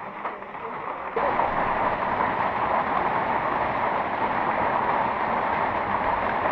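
Heavy rain falling, a steady dense hiss that jumps suddenly louder about a second in.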